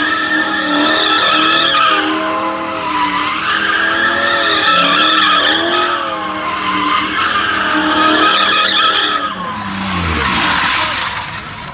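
Ford Mustang GT's V8 doing a burnout: the tyres squeal in long, wavering screeches over the high-revving engine, surging about three times. Near the end the revs fall away and the squeal fades.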